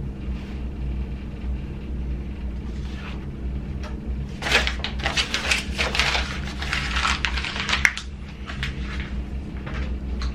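Hands handling small parts: a run of clicks and rustles from about halfway in, ending in one sharp click, over a steady low hum.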